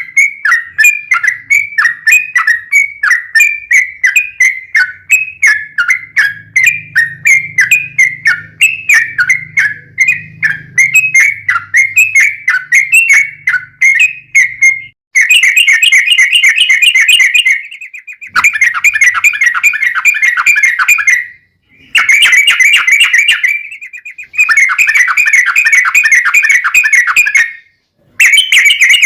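Yellow-vented bulbul (trucukan) singing: a run of short, quick chirps at about two a second, then about halfway through it switches to long, rapid trills in bursts of a few seconds with brief pauses between them. This is the 'ropel panjang' long-trill song used as a lure to make other bulbuls answer.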